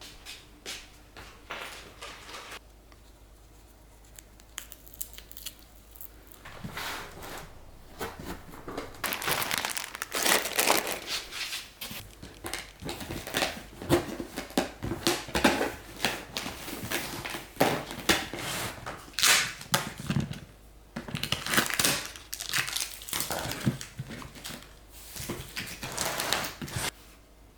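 Irregular crinkling and rustling of something being handled, sparse at first, then dense and busy from about seven seconds in, stopping near the end.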